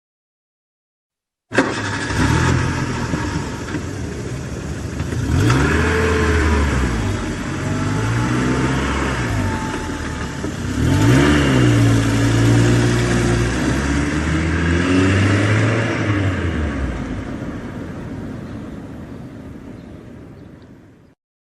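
A car engine revving up and down repeatedly, with the pitch rising and falling several times, then fading away near the end.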